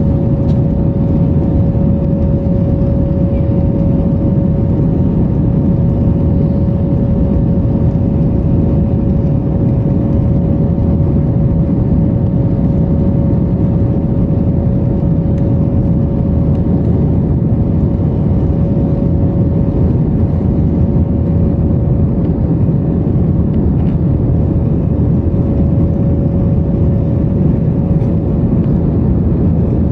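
Jet airliner engines at climb power, heard as a steady, loud drone with a constant whine on top.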